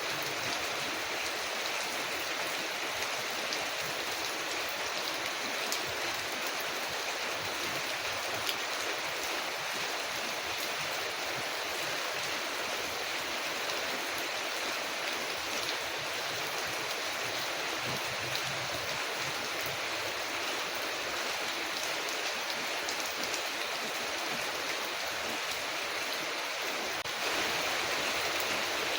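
Steady rain falling on a window, an even hiss, with a few scattered sharp crackles from a wood fire. The rain gets slightly louder near the end.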